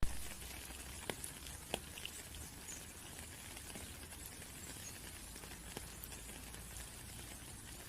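Steady rain with individual drops landing in sharp clicks, the louder ones about a second and nearly two seconds in. The sound begins abruptly after a brief silence, as at the restart of a recording loop.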